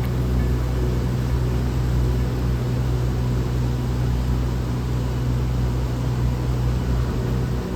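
A steady low rumble with a hiss over it, of a vehicle kind, under faint background music.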